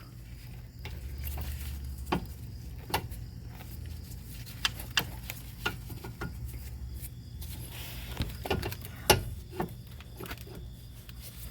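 Scattered sharp metal clicks and light knocks as a new outer tie rod end is threaded on and its stud fitted into the steering knuckle, the loudest knock about nine seconds in, over a low steady hum.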